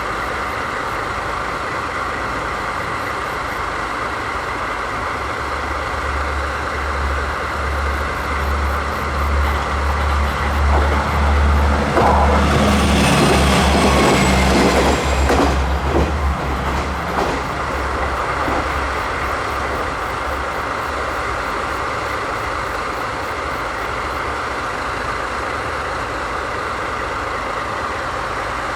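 JNR DD51 diesel-hydraulic locomotive idling steadily. Partway through, a deeper low rumble swells for about ten seconds, and a loud hiss of released air sounds for a few seconds near the middle.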